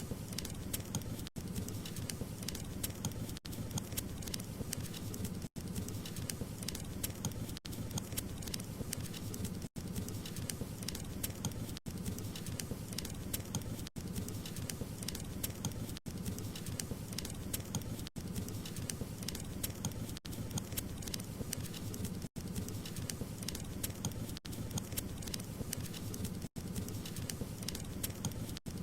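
Wood fire crackling: a dense stream of small pops and snaps over a low, steady rumble of burning, with a brief dip in the sound about every two seconds.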